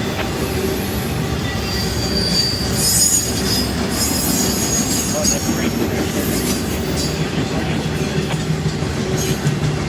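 Freight train cars rolling past, a steady rumble with high-pitched steel wheel squeal against the rails coming and going.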